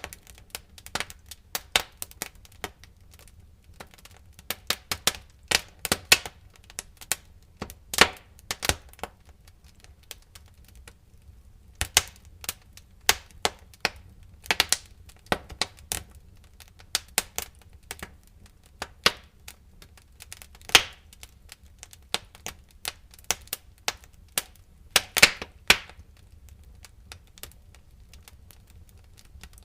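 Wood fire crackling in a fireplace: irregular sharp pops and snaps, some in quick clusters, over a faint low rumble, with a couple of sparser stretches of a second or two.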